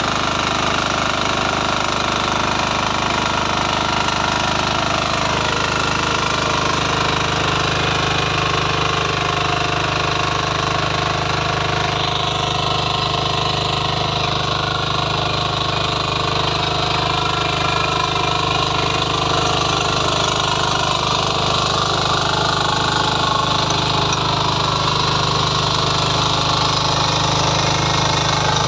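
Power weeder's small engine running steadily, its loudness even throughout, with a slight change in tone about twelve seconds in.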